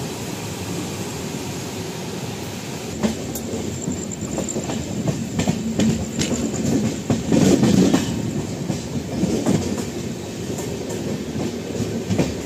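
Passenger train running along the line, heard from inside the coach: a steady rumble of wheels on the track with irregular clacks as the wheels cross rail joints.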